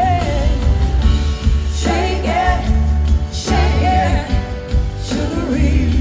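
Live band playing a slow blues-rock song, with a heavy bass line and wavering melodic phrases that bend in pitch, repeating every second or so, between the sung lines.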